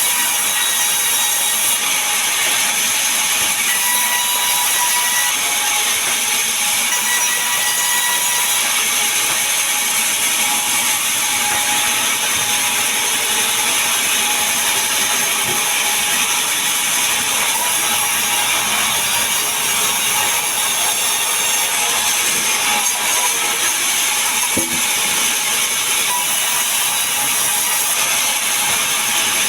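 Power saw running steadily and cutting through timber, a continuous even, high-pitched whirring rasp without breaks.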